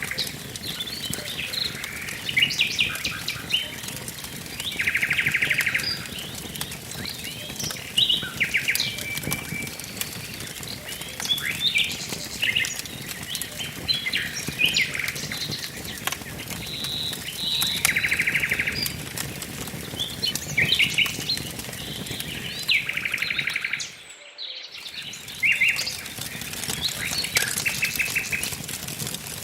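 Several songbirds chirping and calling, with a rapid buzzy trill about a second long that comes three times. Under them, a wood fire crackles with faint scattered pops. The sound briefly drops out about two-thirds of the way through.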